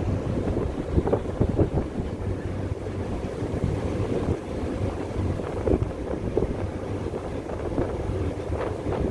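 A boat's engine runs with a steady low hum while wind buffets the microphone, giving an uneven rumble.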